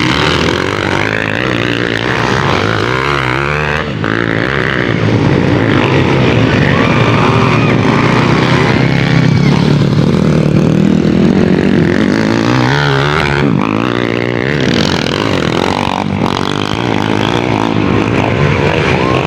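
Motocross motorcycle engines running hard around a dirt track, their pitch rising and falling as the riders accelerate and shift.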